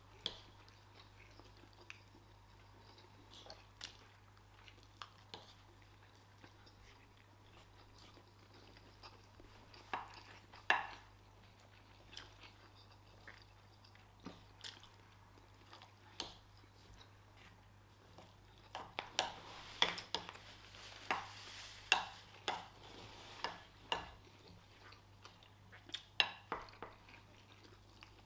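People eating rice and stew with chicken: chewing, with cutlery clicking against plates. The clicks come scattered and quiet at first, then thicker and louder in the second half.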